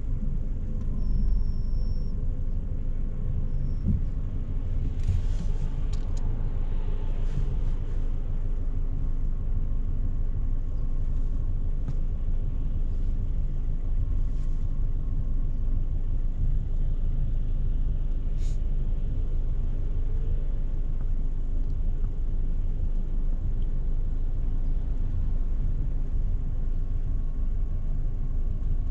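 Renault Clio Symbol's engine idling with the car standing still, a steady low rumble heard from inside the cabin, with a few faint ticks now and then.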